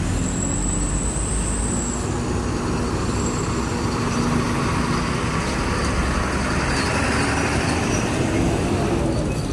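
Road traffic passing close by: engines running and tyre noise, with one vehicle passing loudest in the second half.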